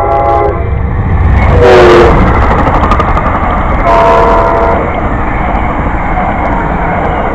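A train passing close by, its horn sounding in blasts: one ending about half a second in, a short one around two seconds in that drops in pitch as the train goes by, and another about four seconds in, over the steady rumble of the train.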